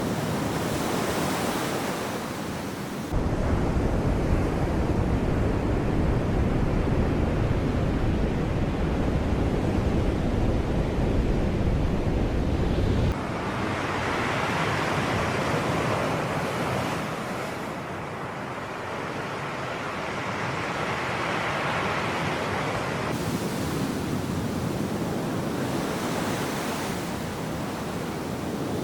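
Sea waves washing in and drawing back on a shore, a steady hiss that swells twice in the second half. From about three seconds in to about thirteen seconds in, a deep wind rumble on the microphone sits under it, starting and stopping abruptly.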